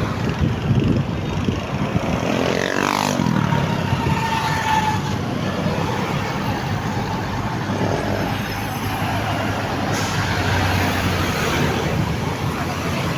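Road traffic noise with motor vehicles going by; one passes about three seconds in, its pitch dropping as it goes.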